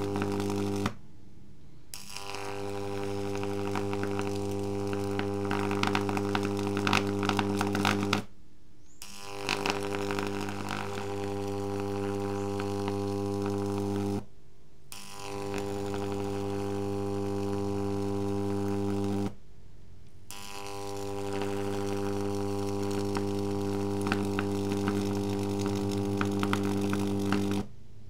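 High-voltage arc from a double microwave-oven-transformer rig, buzzing at twice the 50 Hz mains rate with a crackle on top. It runs in stretches of several seconds and cuts out four times for about a second each.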